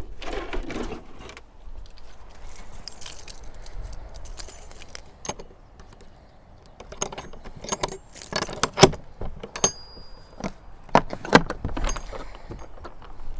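Small hard objects jangling and clattering as they are handled, with a run of sharp knocks, the loudest about nine and eleven seconds in.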